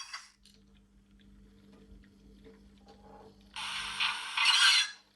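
A model train's motor hums faintly, with light clicking from the wheels on the track. About three and a half seconds in, the motion-triggered SFX70 Goods Shunting sound capsule plays a noisy burst of recorded loose-coupled goods-wagon sound through its small loudspeaker, lasting just over a second.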